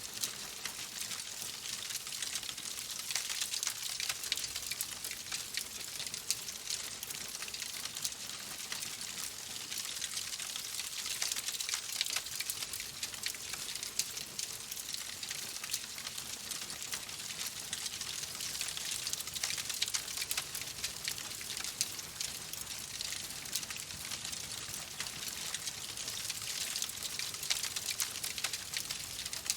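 Wood fire crackling in a fireplace: a steady hiss scattered with many small, quick pops.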